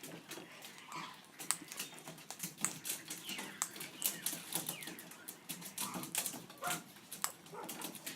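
Irregular sharp clicks and taps of birds pecking and cracking seed at a feeder, with a few faint bird calls.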